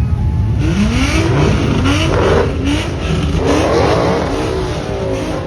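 Car engine revving hard, its pitch climbing in two rising sweeps over a steady low rumble.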